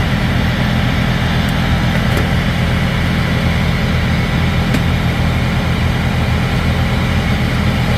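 Heavy truck's diesel engine idling steadily, a low even drone, with a few faint clicks over it.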